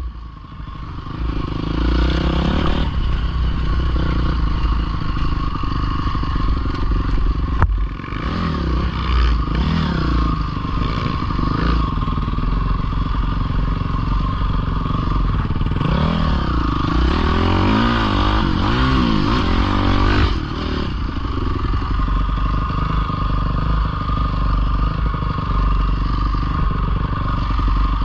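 Small dirt bike (pit bike) engine running under a rider, revving up and down several times, with rising and falling engine pitch clearest in the middle stretch, over a constant low rumble.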